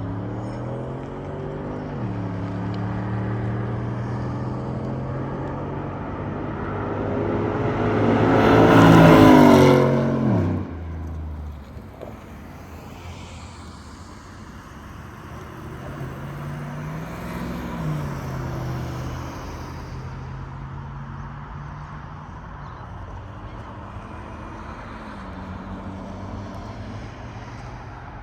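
Cammed 5.3-litre LS4 V8 of a 2008 Chevrolet Impala SS on the road: the engine note climbs in pitch and loudness to a peak about nine seconds in, falls away suddenly just after ten seconds, then settles to a steady cruising note with a smaller rise and fall later.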